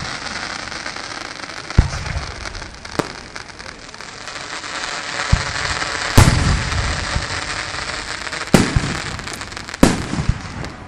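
Fireworks going off: a steady crackling hiss with about half a dozen sharp bangs, the loudest about six seconds in, followed by a low rumble.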